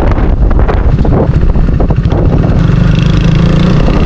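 KTM RC 390's single-cylinder engine running loud and steady while the motorcycle is out on the road.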